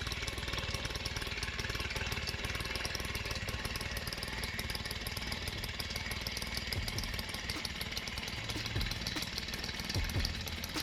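1982 Honda Express NC50's small two-stroke single-cylinder engine running with a steady, rapid pulsing, with a couple of low thumps near the end.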